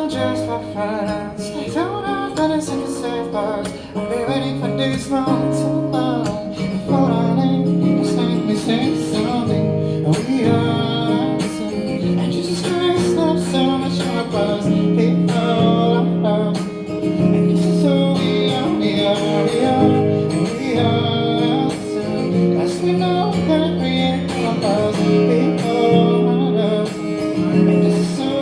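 Music: an acoustic guitar strummed and picked, with a voice singing at times.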